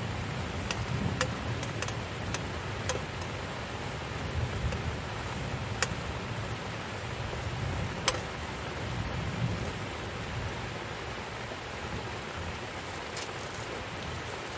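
Heavy rain falling steadily, with a low rumble beneath and scattered single drops striking sharply, the loudest about six and eight seconds in.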